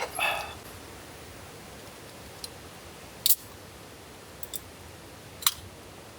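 A sharp click followed at once by a short high squeak, then a few scattered sharp clicks and clinks, the loudest about a third of the way in, over a steady hiss of rain.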